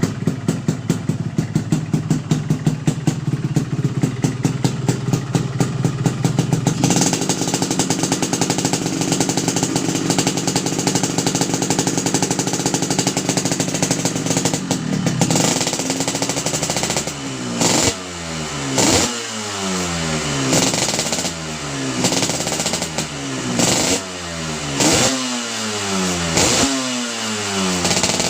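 Yamaha RX-King two-stroke single-cylinder engine breathing through a standard-look racing exhaust. It idles with a pulsing beat, steps up to higher steady revs about a quarter of the way in, and in the second half is revved in a string of quick throttle blips, about one every second and a half.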